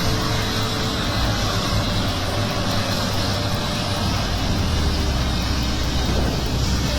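A heavy vehicle's engine running steadily, a deep low hum under a rushing noise.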